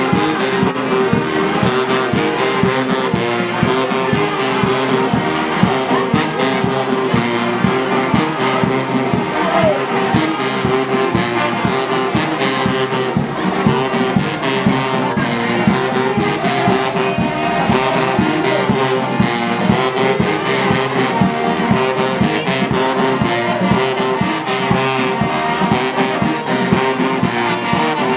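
Brass band music with a steady beat, continuous throughout.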